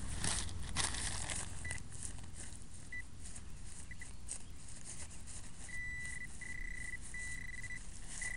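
Metal-detecting pinpointer beeping with one high tone: a few short chirps at first, then longer, almost unbroken beeps in the second half as it closes in on a coin in the grass. Scraping and rustling of grass and dirt during the first second.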